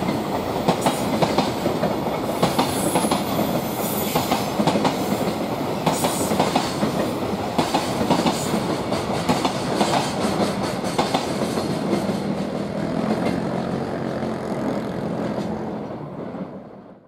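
Freight train of loaded container flatcars rolling past at speed, the wheels clicking over rail joints in a steady, dense clatter. The sound fades away near the end.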